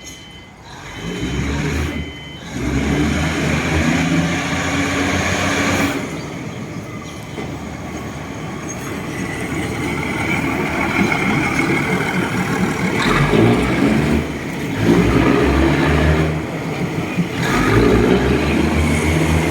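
Diesel train running past close by: a low engine drone that shifts in pitch over a broad rumble of wheels on track, growing louder through the passage. A repeating electronic warning beep sounds for the first couple of seconds.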